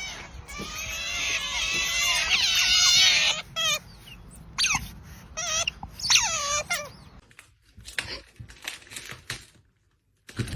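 Several high-pitched animal cries overlapping for about three seconds, then a few shorter separate calls, followed by scattered clicks.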